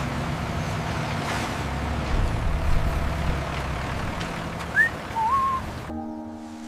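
A heavy vehicle engine running steadily, with a short rising whistle and then a brief wavering whistle tone about five seconds in. It cuts abruptly to music near the end.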